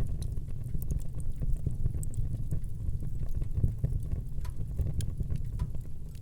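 Wood fire burning in a fireplace: a steady low rumble of flames with scattered crackles and small pops of the burning wood.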